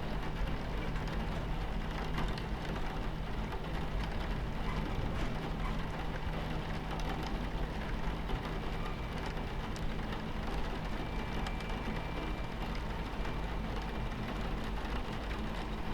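Rain hitting a train window with scattered drop ticks, over the steady low rumble of a train running on its tracks.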